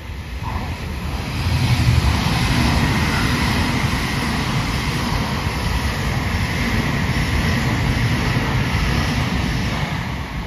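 Shinkansen E2 series bullet train passing through a station without stopping. Its loud rush of wheels and air builds up over the first two seconds, holds steady as the cars go by, and fades near the end.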